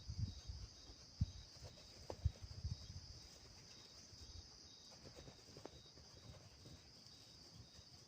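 Insects chirring steadily in the background, with a faint chirp repeating about twice a second. Soft scuffs and rustles come in the first three seconds.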